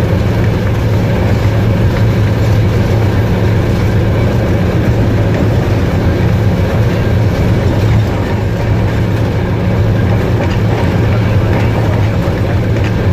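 Train running at speed without stopping: a loud, steady rumble of wheels on rails with a low hum underneath that holds throughout.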